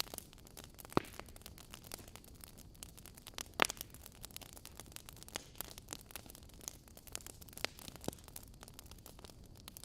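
Wood fire in a fireplace burning with a soft hiss and irregular sharp crackles and pops from the logs, the loudest pops about a second in and near the middle.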